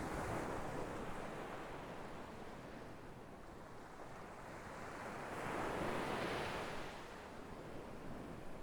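Sea waves breaking and washing up a shore: one surge at the start and a louder one about five to seven seconds in.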